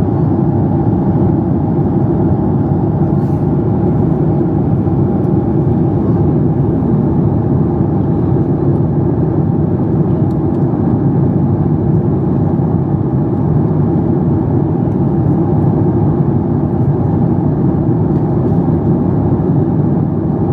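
Steady engine and air noise in the passenger cabin of a Boeing 737 MAX 8, its CFM LEAP-1B turbofans running: an even, deep rumble that holds the same level and pitch throughout.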